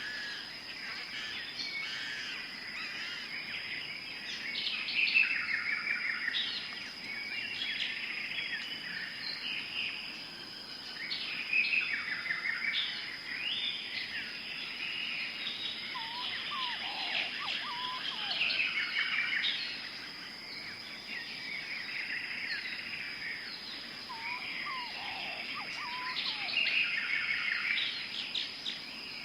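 Tropical forest birds chirping and singing, many overlapping calls and trills, over a steady high-pitched tone. Now and then there are a few short, lower, falling whistles.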